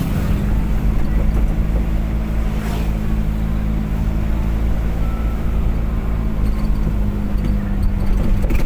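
Car on the move: a steady low engine drone with road noise, holding an even level.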